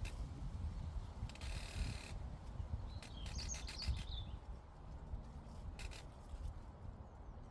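Low wind rumble on the microphone, with a short bird call about three seconds in and a couple of brief hissy noises.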